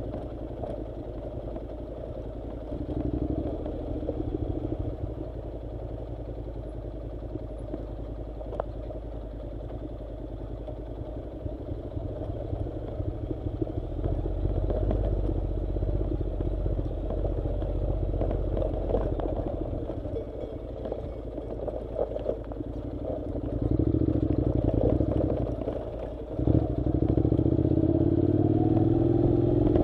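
Honda NC700's parallel-twin engine running under way on a dirt track, with scattered clatter from the rough surface. It grows louder about halfway through and again near the end, where it revs up with a rising pitch.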